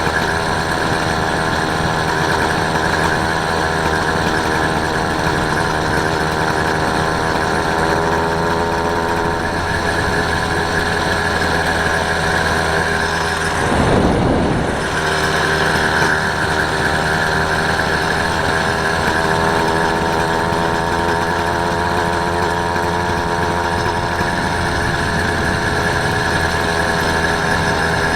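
Small engine of a motorised bike running steadily, its pitch drifting slightly up and down. A brief rushing noise about halfway through.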